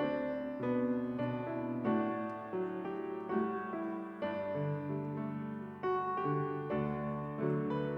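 Piano music: slow chords struck one after another, each note sounding on and fading.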